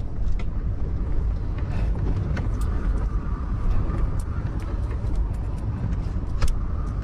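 Strong wind buffeting the microphone: a steady low rumble, with scattered light clicks and rattles.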